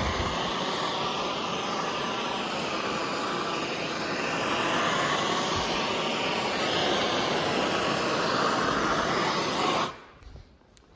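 Steady blowing roar of a heating tool being played over sandblasted metal parts to drive brake cleaner out of the pitting. It shuts off suddenly about ten seconds in.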